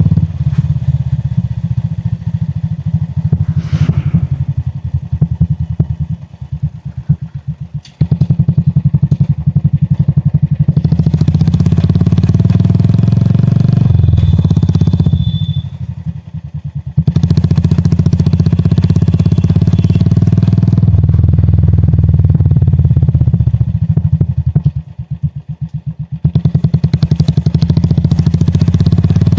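Royal Enfield Classic 350's single-cylinder engine running under way, its exhaust beat dense and loud, easing three times into slower, separate thumps as the throttle is closed and then picking up again. A short high-pitched tone sounds briefly about halfway through.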